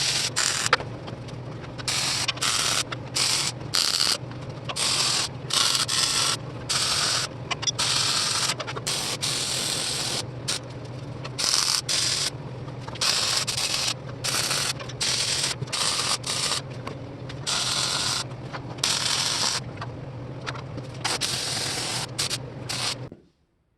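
MIG welder laying a string of short welds on steel: crackling, hissing spurts that start and stop every second or so, over a steady low electrical hum. It all cuts off abruptly near the end.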